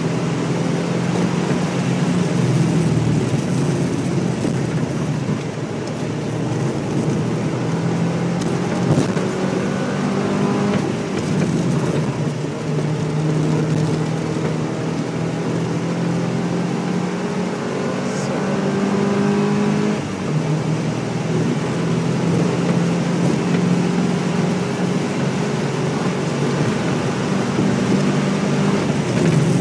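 Porsche 944 S2's 3.0-litre four-cylinder engine heard from inside the cabin, pulling under acceleration with its note climbing and dropping at gear changes about three times, over steady road and wind noise.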